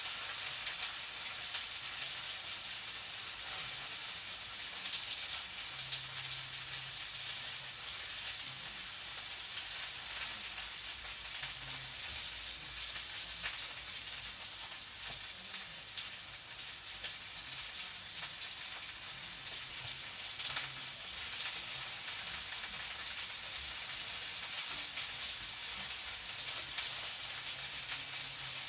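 Food frying in a pan: a steady sizzle with fine crackling throughout.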